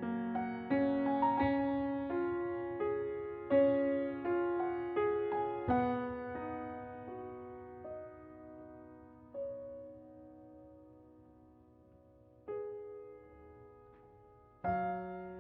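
Soft solo piano background music. The notes thin out to a few sparse, fading chords in the middle, and the melody picks up again near the end.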